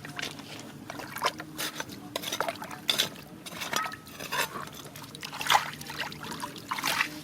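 Water splashing and trickling, with irregular clicks and clatters of small stones knocking together, over a faint steady low hum.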